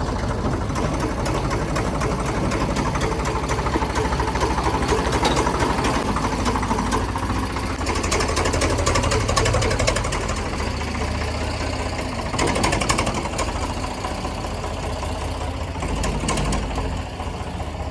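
Eicher 485 tractor's diesel engine running with a fast, even knock, its loudness swelling slightly now and then.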